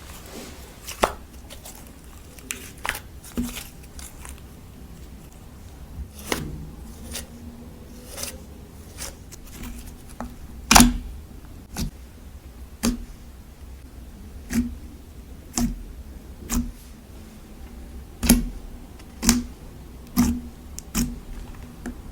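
Clear slime being pressed and stretched by hand, giving off sharp sticky pops and clicks. They come irregularly at first, then about once a second in the second half.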